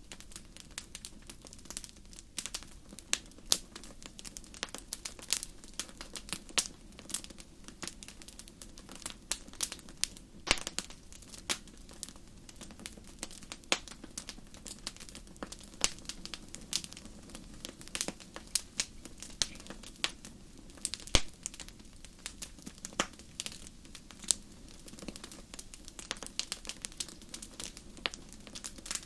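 Wood fire crackling in a fireplace: irregular sharp snaps and pops, several a second and a few louder ones, over a faint steady low hiss of the burning.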